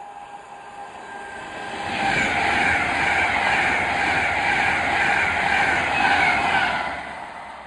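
Virgin Class 390 Pendolino electric train passing close by at speed: wheel and air noise builds over the first couple of seconds, holds loud for about five seconds as the carriages go by, then fades near the end.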